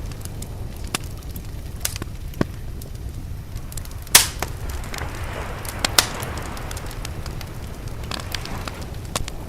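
Wood fire crackling with scattered sharp pops, two louder snaps about four and six seconds in, over a steady low rumble of sea waves.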